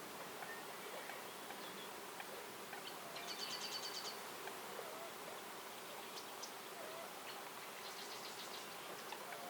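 Forest ambience: a songbird gives a rapid high trill of about ten notes twice, about three and eight seconds in, with scattered short chirps from other birds. Underneath is a faint steady insect buzz.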